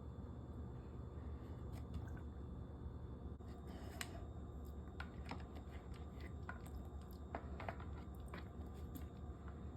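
A puppy mouthing and splashing at an ice cube floating in her water bowl: faint, scattered wet clicks, laps and small splashes, coming more often in the second half.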